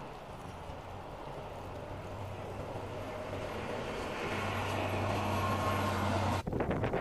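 A vehicle growing steadily louder, a low engine hum under tyre and road noise, as if approaching. About six and a half seconds in it cuts off abruptly, replaced by gusting wind buffeting the microphone.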